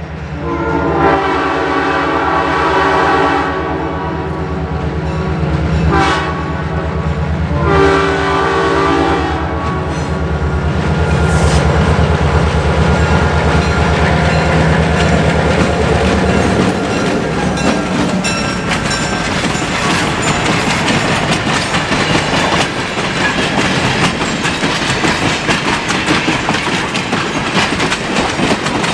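A freight train passing at speed. The locomotive sounds its horn: a long blast, a short one and another long one, over a heavy engine rumble. After the engine has gone by, about halfway through, the rhythmic clickety-clack of the freight cars' wheels on the rail joints takes over.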